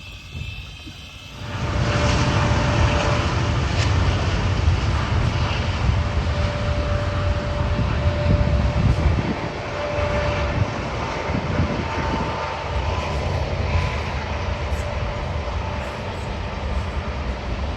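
Small propeller airplane's engine running, loud and steady. It swells up about a second and a half in and holds that level.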